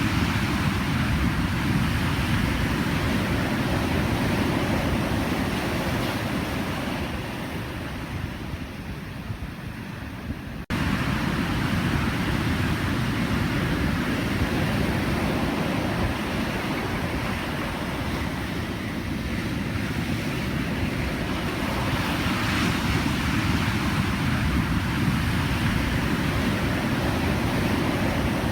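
Pacific Ocean surf: waves breaking and washing in as a dense, continuous rush. The surf eases for a few seconds about a third of the way through, then snaps back to full strength suddenly, as at a cut.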